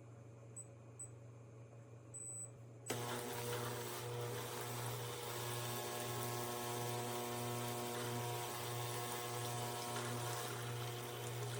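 De'Longhi Magnifica Start fully automatic espresso machine switching on about three seconds in and running steadily, a mechanical hum with a pulsing low drone, after a few faint clicks.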